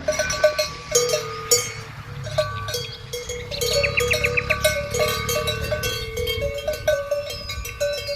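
Cowbells on cattle clanking irregularly, several ringing strikes a second, with a quick run of high chirps about four seconds in.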